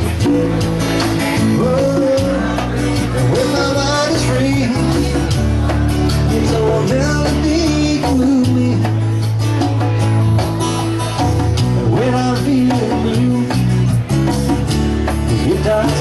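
Live band playing a song, with guitar, bass and a singing voice.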